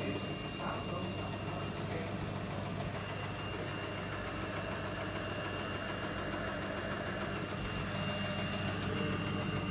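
Logik L814WM16 washing machine running with a steady grinding noise from the drum.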